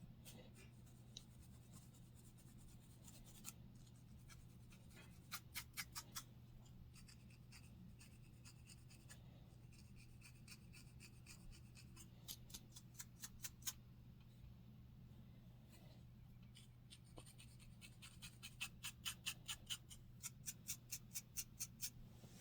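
Scratching on a scalp to loosen dandruff, in short runs of quick strokes, about five a second, with the longest run near the end.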